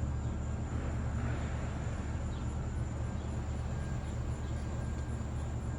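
Steady low outdoor rumble with a faint, steady high-pitched whine over it; no distinct cracks or impacts.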